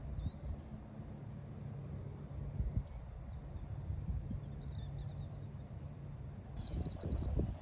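Outdoor ambience: a low rumble from wind or microphone handling, with faint short bird-like chirps in the first half and a brief rapid trill near the end.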